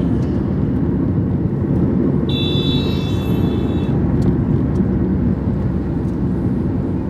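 Steady road and engine noise of a car driving along a highway. About two seconds in, a vehicle horn sounds once for about a second and a half.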